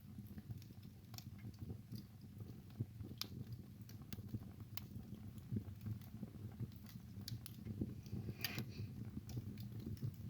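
Wood fire burning in a fireplace: a low steady rumble of flames with irregular sharp crackles and pops from the burning wood, a brief cluster of louder pops a little past the middle.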